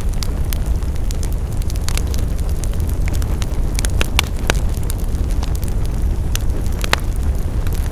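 Wood fire burning: a steady low rumble of flames with irregular sharp crackles and pops of burning wood, a few louder pops around the middle and near the end.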